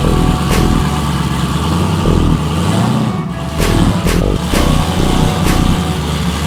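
Twin-turbo F-body's engine running and revving in repeated surges, with several sharp cracks along the way.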